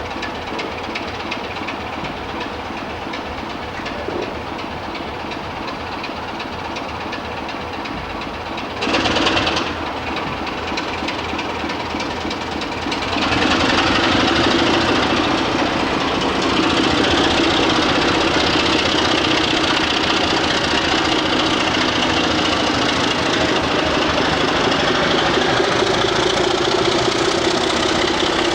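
Diesel locomotive engine running. There is a short, loud burst of noise about nine seconds in, and from about thirteen seconds the engine becomes louder with a steady drone.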